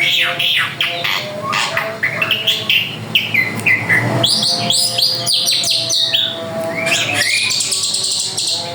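Drongo (srigunting) singing a rapid, varied song of chirps and whistles, many of the notes sliding up or down in pitch, with hardly a break.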